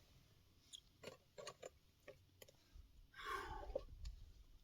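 Faint, scattered clicks of a person chewing while eating, with a short rustle about three seconds in.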